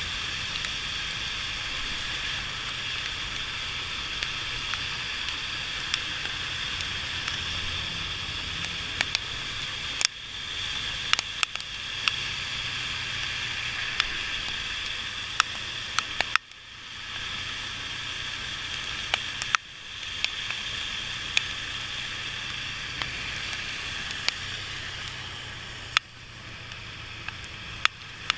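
Motorcycle riding on a wet road in the rain: a steady hiss of wet tyres, wind and rain, with a faint low engine hum and scattered sharp ticks. The hiss drops away abruptly a few times and builds back up.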